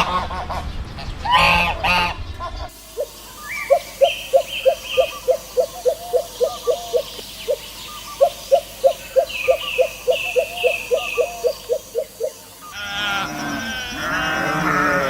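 Farm fowl calling: a few goose honks, then a long run of short calls repeated rapidly, about three to four a second, with higher chirps above them. Near the end, sheep bleating takes over.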